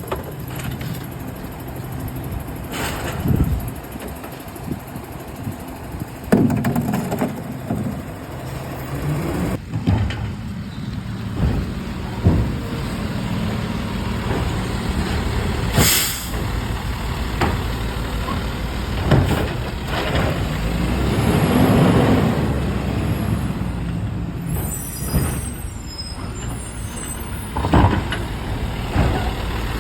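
Garbage truck running, its engine humming steadily under repeated bangs and clanks. A short, sharp air-brake hiss comes about halfway through. Around two-thirds of the way the engine noise swells up and dies back down.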